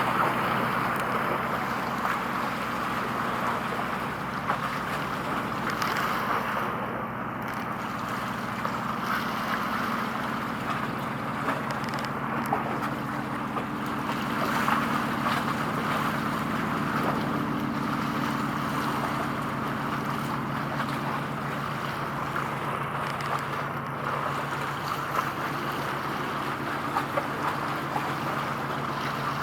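A ship's engine hums steadily at a low pitch, mixed with the wash of water and some wind noise.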